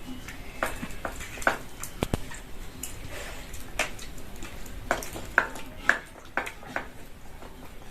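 Light, irregular clicks and clinks of dishes and utensils, a dozen or so scattered taps over a quiet steady background.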